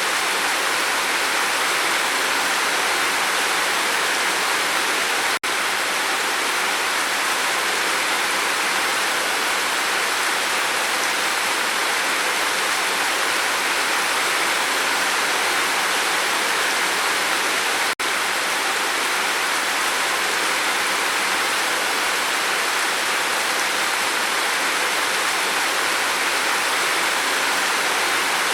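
Steady, heavy rain falling on a roof, an even continuous hiss with no thunder. It drops out for an instant twice, about five seconds in and again about eighteen seconds in.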